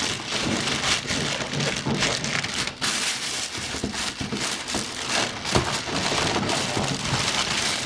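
Packaging rustling and crinkling: a steady, dense crackle with many small clicks as the boxed microwave is worked out of its cardboard box and wrapping.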